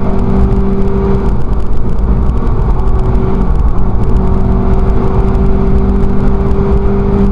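Volkswagen Scirocco race car at speed, heard from inside the cabin: the engine holds a steady note over heavy low road and wind rumble, breaking off briefly twice before it settles again.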